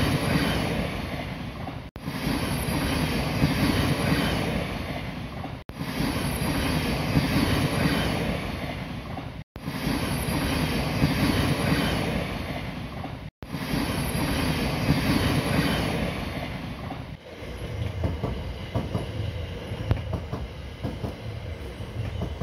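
Passing passenger train: a loud rumble and rattle of wheels on the rails, broken by brief dropouts every few seconds. About three-quarters of the way through it changes to a quieter, lower rumble with scattered clicks, as the train runs past the level crossing.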